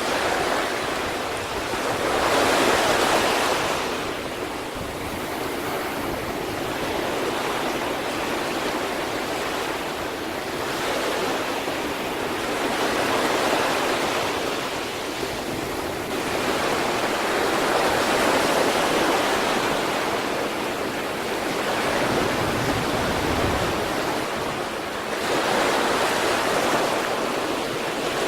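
Sea waves breaking and washing on the shore in a steady surf, swelling every few seconds as each wave comes in, with some wind on the microphone.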